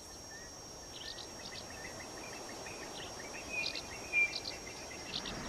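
Bush ambience: small birds chirping in short, scattered notes over a steady high-pitched insect drone, with one louder chirp a little after four seconds.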